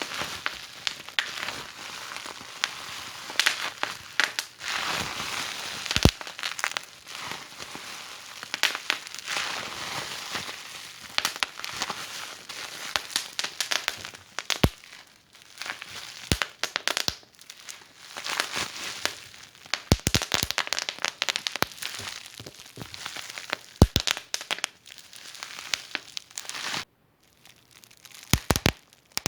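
Wood fire crackling in a fireplace: a dense run of small crackles with sharp, louder pops every few seconds. Near the end the crackling drops out for about a second.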